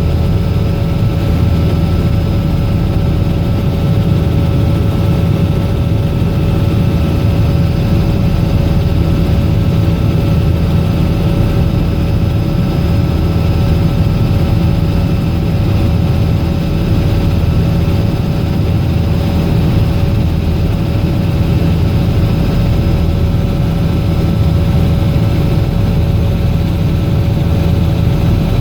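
Robinson R66 helicopter's turbine engine and rotors running steadily: a loud, even drone with several steady whining tones over it.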